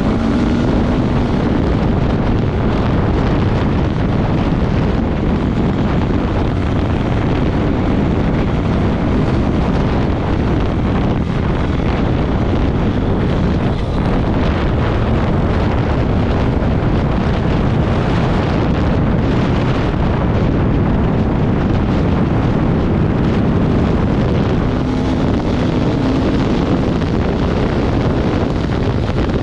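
Off-road vehicle engine running under way, mixed with heavy wind buffeting on the microphone, with the engine note rising briefly at the start and again near the end.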